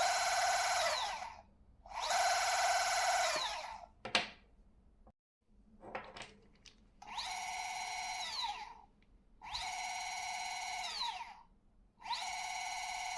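Bafang M560-series mid-drive e-bike motor run with no load, in five short bursts of high whine. Each burst winds up to speed, holds for about a second and a half, and winds down. The loud noise is normal for a no-load motor spinning fast at high RPM. A single click falls in the pause near the middle.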